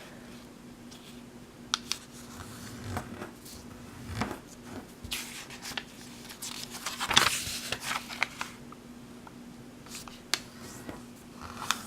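A square sheet of origami paper being folded in half and creased by hand: scattered rustles and crinkles, with louder swells about five and seven seconds in and a few sharp clicks. A faint steady hum runs underneath.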